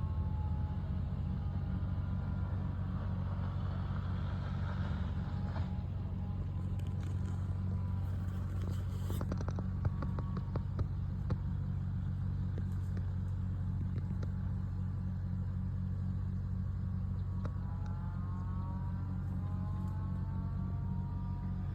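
Tractor engine running steadily with a low rumble; a whine slides in pitch near the start and again near the end, and a few clicks come in the middle.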